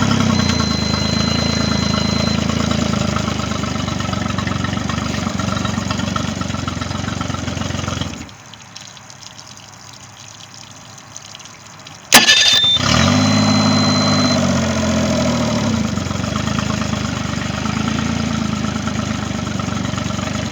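Mercury 25 hp outboard motor running after a no-start fault was repaired; it is shut off about eight seconds in, then restarted about four seconds later with a sharp click, catching at once, its speed settling over the next couple of seconds as it runs on.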